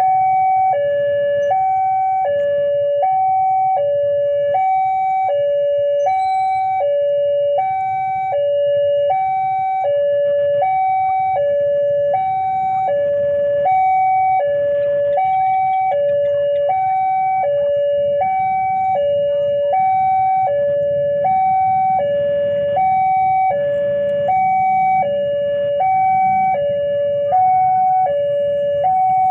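Electronic two-tone warning alarm of a railway level crossing, alternating steadily between a lower and a higher tone about once a second, over a continuous low rumble.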